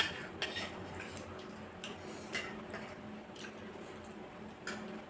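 Mukbang eating sounds: wet mouth clicks and squishes from chewing yogurt and beaten rice, with a sharp click at the very start and a few short clicks spread through the rest.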